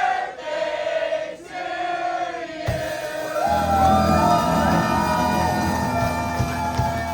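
A roomful of voices singing together in long held notes. About two and a half seconds in, a rock band comes in hard with drums, bass, guitar and keyboards.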